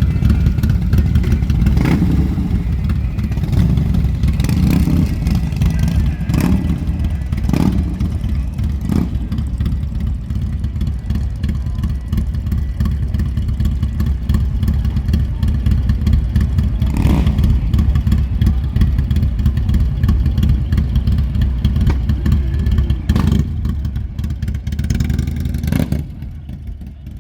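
Harley-Davidson V-twin motorcycle engine running with a steady low rumble, with a few short sharp sounds now and then; it drops away near the end.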